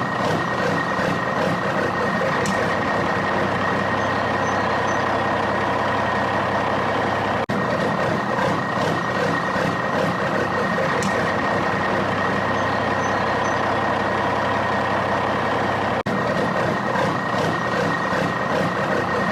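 Truck engine running steadily, with a constant high whine over it and two brief dropouts, about seven and a half and sixteen seconds in.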